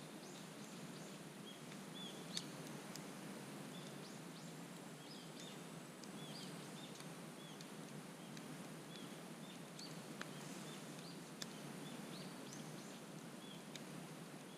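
Wood campfire crackling faintly, with a few sharp pops, the loudest about two seconds in, while small birds chirp over and over.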